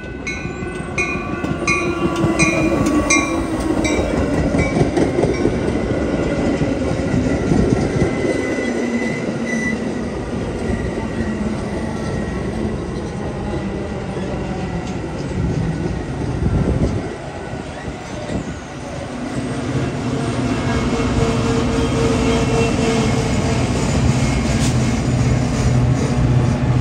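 Metra commuter train of bilevel passenger cars rolling past, with wheel-on-rail rumble and clatter throughout. A grade-crossing bell rings rhythmically and fades over the first few seconds. From about two-thirds of the way in, the diesel locomotive's engine drone grows and holds steady as it nears.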